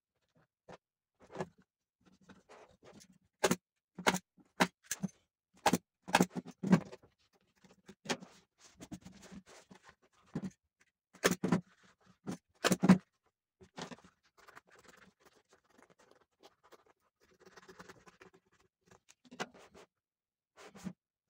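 Irregular sharp clicks and knocks of objects being handled and set down, some with a dull hollow body. The louder knocks come in two clusters, in the first third and around the middle, followed by faint rustling.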